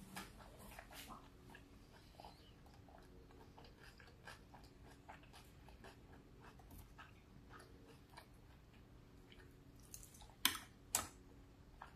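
Close-up mouth sounds of chewing a bite of cheeseburger: soft, wet smacks and small clicks throughout. Near the end, two sharp, louder clicks come as a forkful of squash goes into the mouth.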